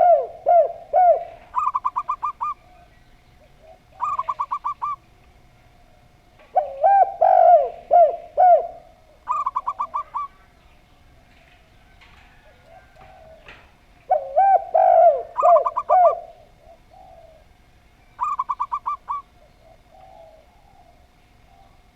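Zebra dove and spotted dove cooing in turn. Bouts of lower, looping coos alternate with quick runs of higher, clipped notes, the pattern coming round about every 7 seconds.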